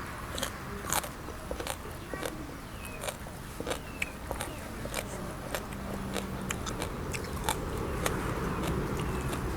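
Close-up crunchy biting and chewing: a person eating, with many sharp, crisp crunches scattered irregularly through.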